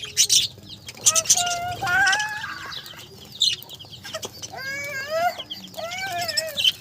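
Birds calling, a run of short pitched calls that rise and fall, mixed with sharp high chirps.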